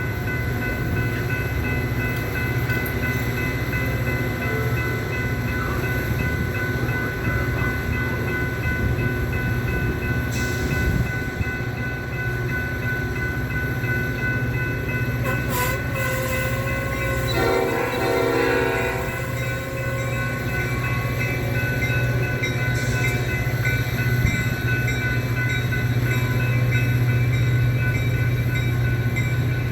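Metra F40PH diesel locomotive, a two-stroke V16, running with its passenger train in a steady low drone. Its air horn sounds once for a second or two about two-thirds of the way through.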